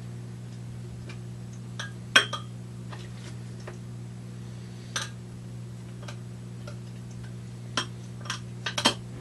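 Scattered light clicks and taps of small hard objects being handled, the loudest about two seconds in and a quick cluster near the end, over a steady low hum.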